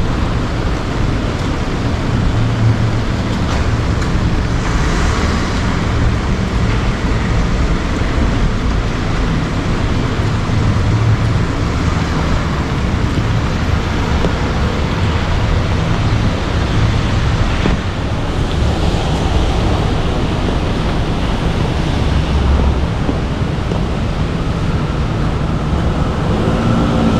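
Heavy rain falling steadily: a dense, even hiss with a deep rumble beneath it.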